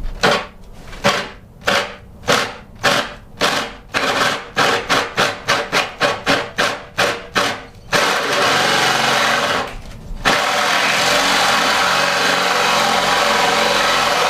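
Power drill boring a faucet hole through a countertop: first run in short trigger bursts, about two a second, then running continuously, with a brief stop about ten seconds in.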